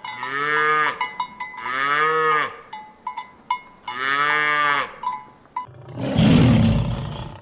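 Cow mooing three times, each moo about a second long, rising then falling in pitch, with a cowbell clanking between the calls. Near the end, a loud, rough, low roar cuts in.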